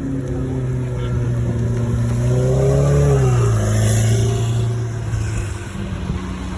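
Ferrari F8 Tributo's twin-turbo V8 running, its pitch climbing to a peak about three seconds in and then falling back to a steady note, loudest around the peak.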